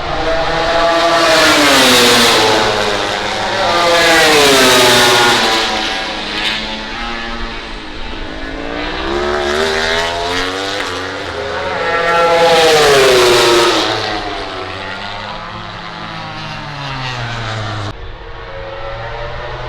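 MotoGP prototype race bikes with 1000 cc four-cylinder engines passing at speed, their engine pitch rising and falling as they rev through the gears. The loudest passes come about 2, 4 and 13 seconds in.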